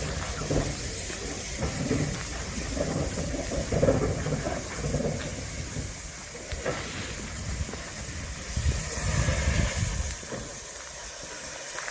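Steam locomotive hissing steam, with the low, uneven rumble of the train.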